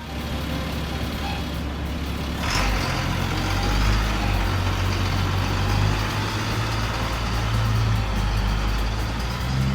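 A heavy vehicle's engine running, a low steady rumble, with a short air hiss about two and a half seconds in, after which the engine note shifts.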